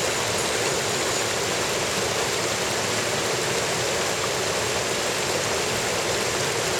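Mountain stream rushing steadily, an even roar of water with no break.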